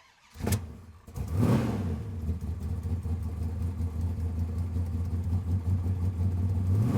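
Straight-piped Audi R8 V8 exhaust: a quick rev about a second and a half in, then a steady low idle, with another rev starting right at the end.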